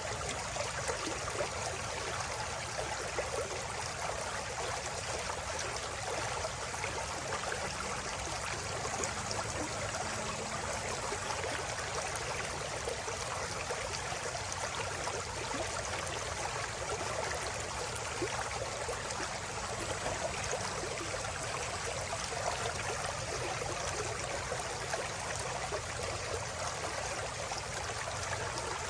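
River water flowing and babbling steadily over rocks, a continuous rushing and trickling with no pauses.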